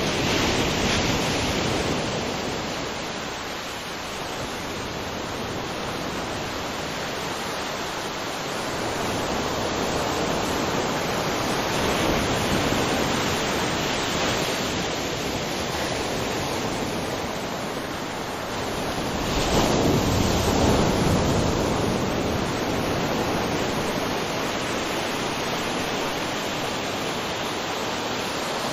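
Waterfall: a steady rush of falling water that swells louder for a few seconds near the start and again about two-thirds of the way in.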